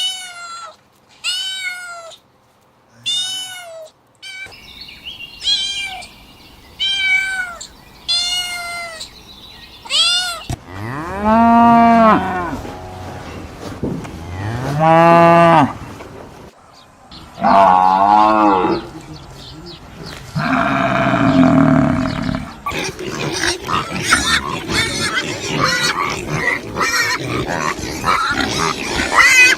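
A sequence of animal calls. First come about eight short, high meows, one every second or so, like a cat. Then two long, low cow moos, followed by more calls and a dense stretch of rapid, noisy animal sounds near the end.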